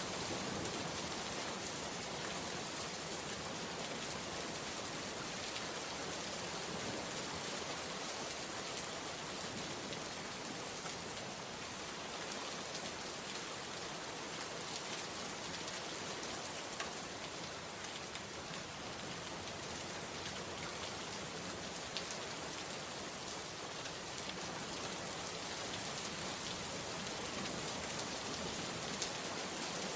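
Steady rain falling, an even hiss with a few separate drips landing now and then.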